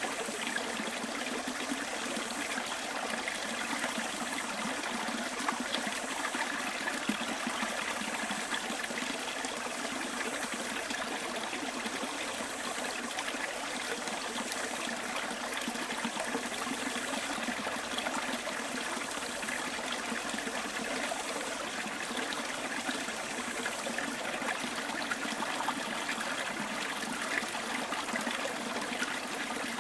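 Small bush stream flowing and trickling steadily.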